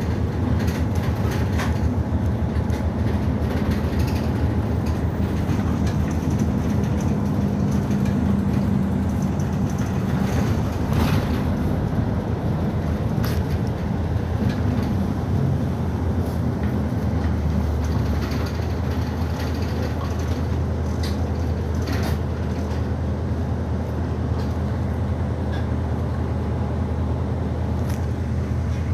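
City route bus running, heard inside the cabin: a steady low engine hum whose tone shifts a few times as it pulls and eases off, with scattered rattles and clicks from the body and fittings.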